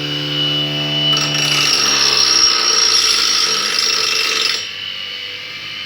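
Homemade bench grinder driven by a washing-machine motor, running with a steady hum. About a second in, a workpiece is pressed to the abrasive disc for roughly three and a half seconds, giving a harsh grinding hiss that loads the motor. The motor runs on more quietly once the grinding stops.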